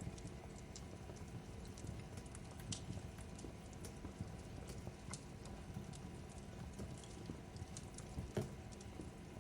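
Wood fire crackling in a fireplace: a steady low rumble with irregular sharp crackles and snaps, one louder pop near the end.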